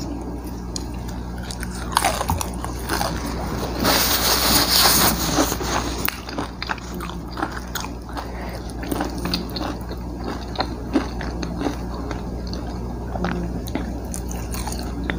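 Close-miked mouth sounds of someone eating fried chicken: chewing and biting with many small wet clicks, and a louder, noisier stretch about four seconds in. A steady low hum runs underneath.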